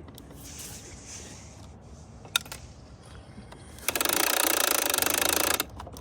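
A small mechanism whirring and rattling for about a second and a half, starting about four seconds in, after a single sharp click.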